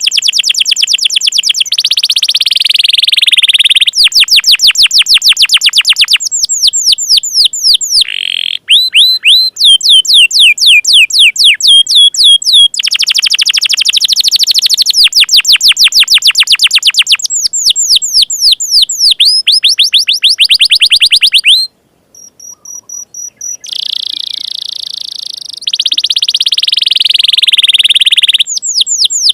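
Domestic canary singing a long, loud song of rapid trills and fast repeated notes, switching from one trill type to the next every second or two, with a short quieter break about 22 seconds in. It is the kind of contest-style canary song used as masteran, to tutor other birds.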